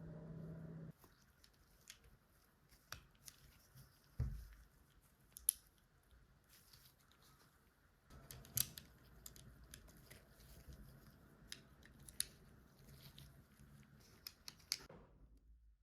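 Plastic LEGO pieces being handled and clicked together: scattered sharp clicks and light taps, with a soft thump about four seconds in. A low hum stops about a second in.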